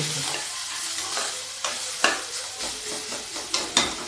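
Chopped onions and tomatoes frying and sizzling in an open aluminium pressure cooker while a slotted spoon stirs them, with several sharp clinks and scrapes of the spoon against the pot.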